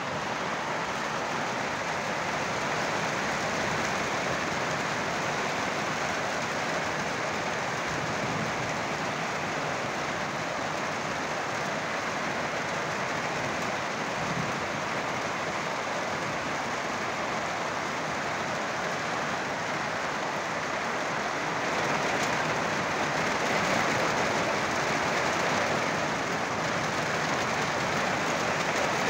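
Steady rain falling on trees, a dense even hiss that grows louder about three-quarters of the way through.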